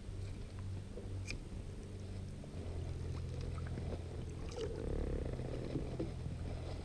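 Quiet sound of a small inflatable kayak sitting on still water: a low steady rumble with a few faint clicks and taps, and no speech.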